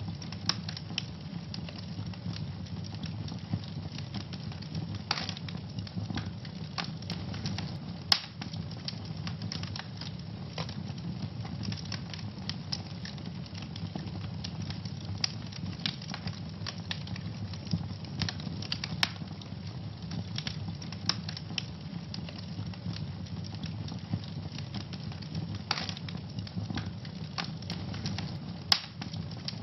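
Wood fire burning in a fireplace, crackling steadily with frequent small snaps and a few louder pops over a low, even rumble of the flames.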